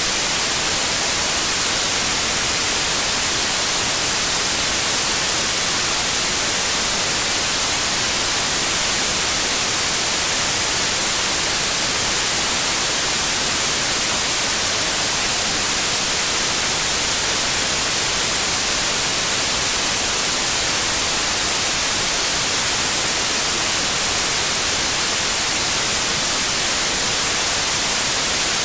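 Steady, continuous white noise: an even hiss, brightest in the high end, with no changes in level.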